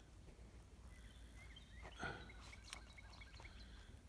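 Near silence, with faint bird chirps scattered through it and one soft brief sound about two seconds in.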